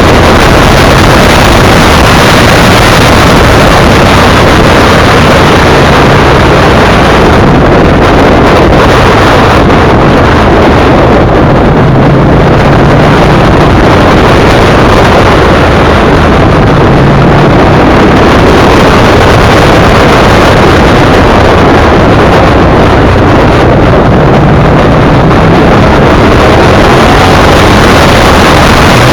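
Motorcycle riding at speed: heavy wind buffeting on the microphone over the steady drone of a V-twin sport bike's engine, its note shifting slightly now and then.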